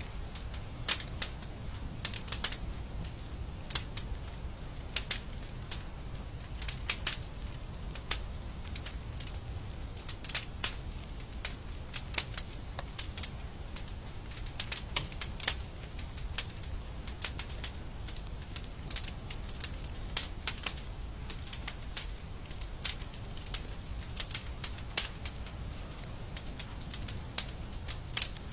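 Wood fire crackling in a fireplace: irregular sharp pops and snaps, sometimes several close together, over a steady low rumble.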